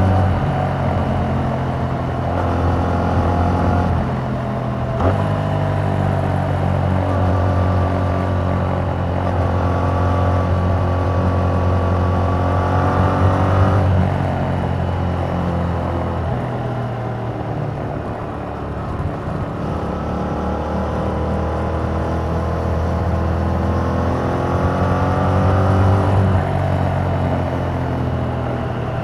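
2021 Yamaha MT-07's parallel-twin engine through its stock exhaust while being ridden. The engine pitch climbs under acceleration, drops at gear changes about 4 and 14 seconds in, stays low for a few seconds, then climbs again.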